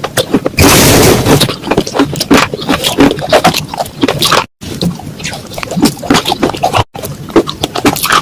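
Dry clay pots being crushed and crumbled: crisp crunching and scraping in quick, irregular strokes, with a louder gritty rush about a second in. Short clips are cut together with abrupt breaks twice.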